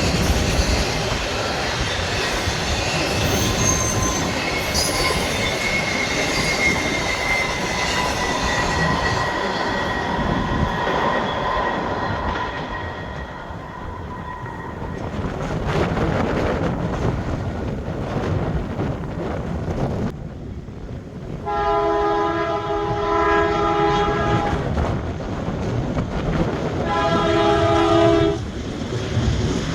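Freight train rolling past with a steady rumble of wheels on rail and a faint, slowly falling squeal. Past the two-thirds mark a locomotive air horn sounds one long chord for about seven seconds, breaks off, and sounds again at the very end.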